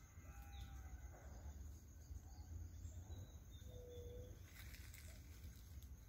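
Faint bird calls over a low rumble: a short call about half a second in and a brief whistled note about four seconds in, with a steady high insect-like tone throughout and a brief rustle near the end.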